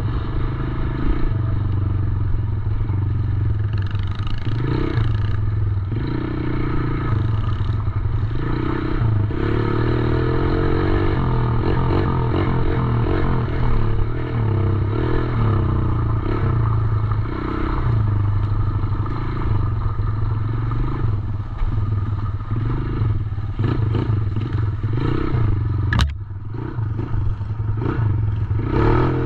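Small 110cc dirt bike engine running continuously, its speed rising and falling as it is throttled while riding. A single sharp click comes near the end.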